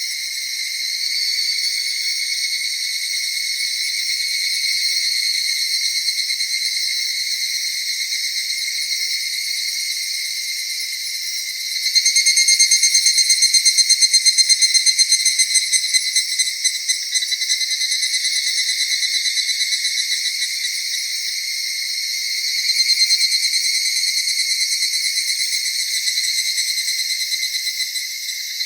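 Chorus of crickets and other autumn night insects, several callers trilling steadily at different pitches. About twelve seconds in, a louder pulsing caller joins for a few seconds.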